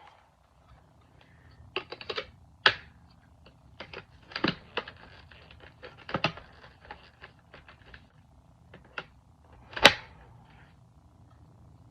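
Hard plastic parts of a Shark Navigator Lift-Away vacuum clicking and knocking together as a small attachment is tried against the handle. Irregular sharp clicks with a few louder knocks, the loudest a little before the end.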